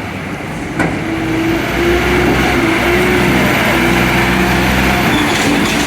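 Truck engine running close by. It grows louder after a sharp knock about a second in, then holds steady with a droning hum.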